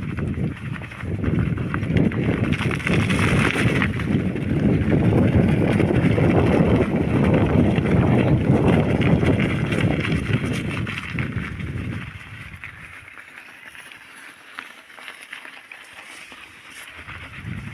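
Rumbling noise of a bicycle being ridden along a forest track, loud for about twelve seconds, then dropping much quieter.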